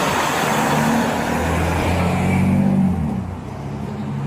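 A car engine and its road noise passing by on the street: the engine note rises, then the sound drops away about three seconds in.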